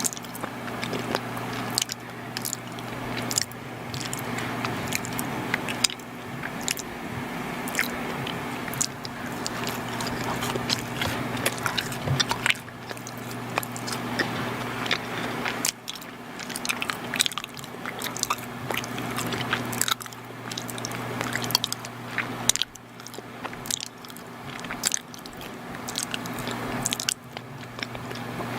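Close-miked chewing of soft, chewy chocolate baked goods: sticky mouth sounds with many small wet clicks and smacks, over a steady low hum.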